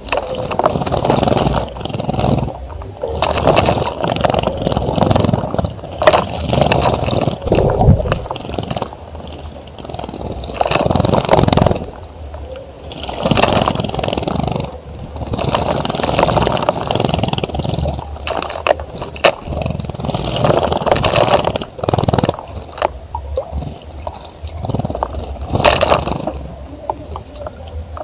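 A bird bathing in a bird bath: repeated bursts of splashing water and wing-flutter, each lasting a second or two with short pauses between.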